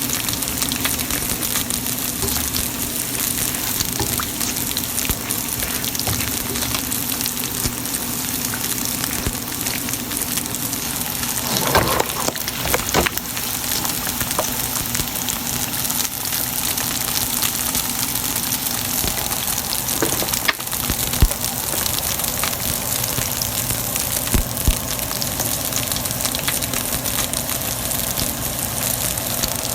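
Pork frying in hot oil, a steady crackling sizzle, with a few short clicks around twelve and twenty-one seconds in.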